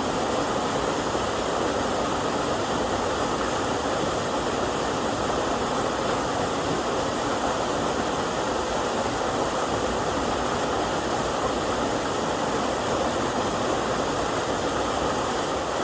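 Steady rush of water from a small waterfall on a mountain stream, a twin-stranded fall about 6 m high.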